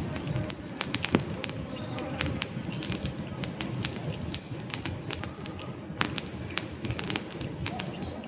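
Wood campfire crackling: irregular sharp pops and snaps over a low steady rumble of burning logs.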